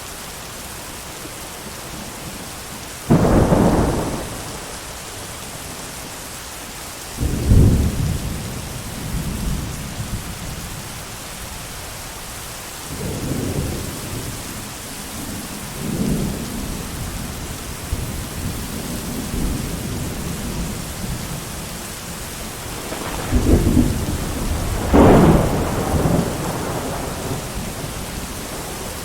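Steady heavy rain hiss with thunder: a sudden clap a few seconds in, another soon after, softer rolling rumbles through the middle, and a loud double clap near the end.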